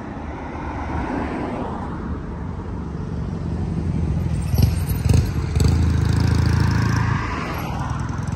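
A car engine running close by, with a steady low hum that grows louder in the second half, a couple of short knocks in the middle, and a sudden cut-off at the end.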